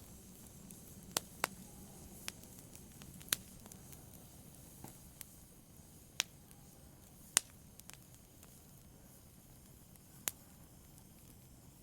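Wood fire crackling in a fireplace: sharp pops and snaps at irregular intervals over a faint, steady hiss.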